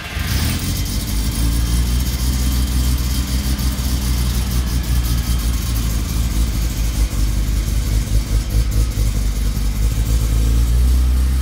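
1971 Mazda Cosmo Sport's two-rotor Wankel rotary engine catching at the start and running on its first cold start, the level jumping unevenly several times around the middle.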